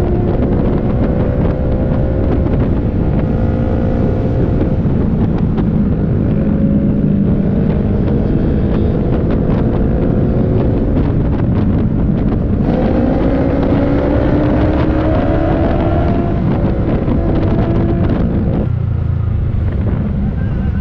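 Motorcycle engine, likely the Yamaha R3's parallel twin, under way: its pitch climbs through the gears in several pulls, with a shift about twelve seconds in, over steady wind noise on the microphone. Near the end the engine note drops as the throttle closes.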